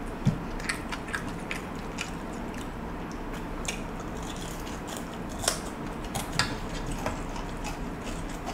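Chewing crispy fried galunggong fish, with scattered sharp crunchy clicks, the loudest about five and a half and six and a half seconds in.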